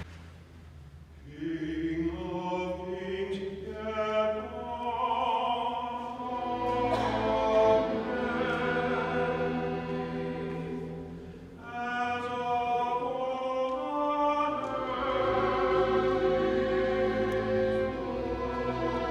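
Choir singing classical sacred music with orchestral accompaniment in long held phrases. The singing comes in about a second in, and there is a short pause between phrases a little past the middle.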